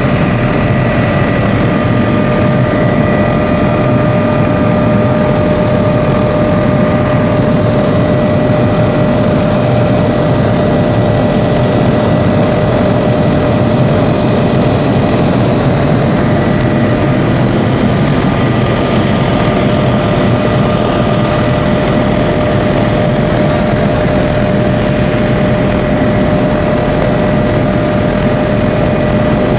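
Helicopter in flight, heard from the cabin: a loud, steady engine and rotor drone with a constant whine over it.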